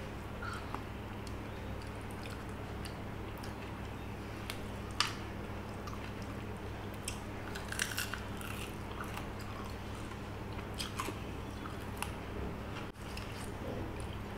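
Close-up chewing and mouth sounds of a person eating rice and fish curry by hand, with scattered soft clicks and smacks over a steady low hum.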